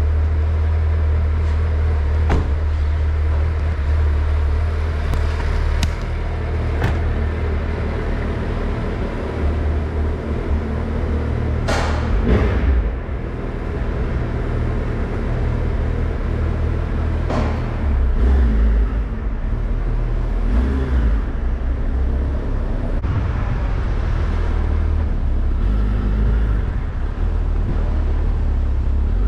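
Suzuki Hayabusa's inline-four engine idling and pulling away at low speed, a steady low rumble throughout, with a few sharp clicks and knocks along the way.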